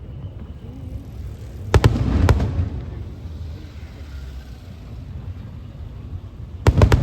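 Aerial fireworks shells bursting. A quick cluster of three sharp bangs about two seconds in trails off into a rolling rumble, and a second cluster of bangs comes near the end, over a steady low rumble.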